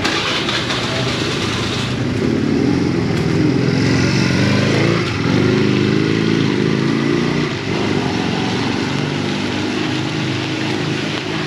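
A vehicle's engine running close by, loudest through the middle few seconds, over the steady hiss of heavy rain.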